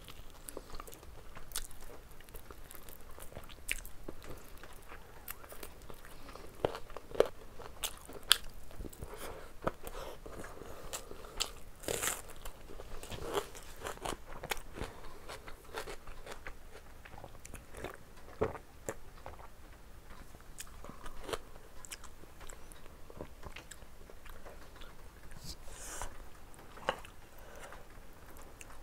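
A person biting and chewing meat close to the microphone, with many scattered sharp clicks and crunches.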